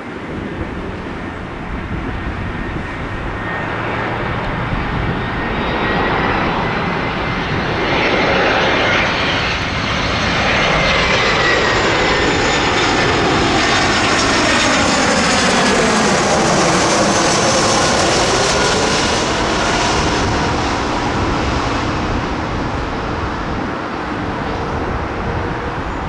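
Airliner passing low overhead near the runway end: its engine noise builds steadily to a peak about two thirds of the way in, with a high engine whine, then starts to fade.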